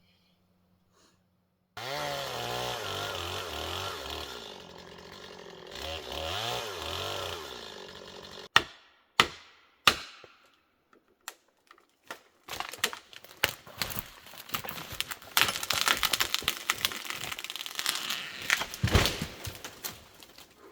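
A chainsaw starts about two seconds in and runs for several seconds, revving up and down. Three sharp knocks follow, then a long run of cracking and snapping.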